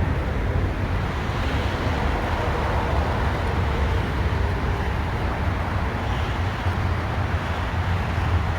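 Steady low rumble of vehicle noise, unbroken and even throughout.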